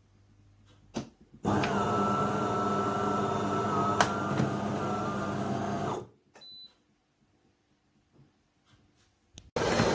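A De'Longhi Dinamica Plus bean-to-cup coffee machine runs through its cycle. A click comes about a second in, then a loud steady mechanical noise with a sharp tick in the middle, typical of the built-in grinder. The noise stops about six seconds in, and after a quiet pause the machine starts running steadily again near the end. It is a new machine whose noise is expected to quieten after five or six cups.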